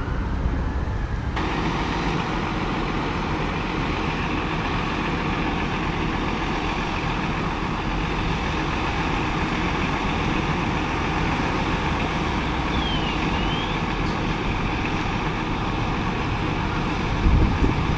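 Fire engine driving, its engine and road noise steady throughout. The last of a gliding siren tone fades out in the first second.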